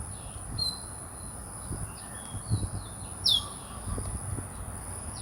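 Outdoor birds calling, with short chirps and a sharp downward-sliding call about three seconds in. Behind them is a steady thin high-pitched tone, with scattered low thumps on the microphone.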